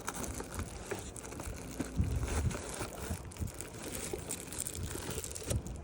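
Packaging crinkling and rustling, with scattered small clicks and a few soft knocks about two seconds in, as an engine air filter is unwrapped and handled.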